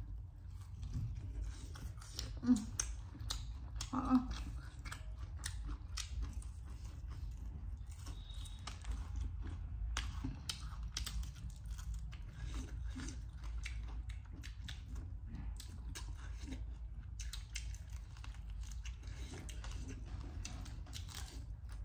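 Close-up chewing and crunching of crispy Korean fried chicken, with many small, sharp crunches and mouth clicks over a low steady hum.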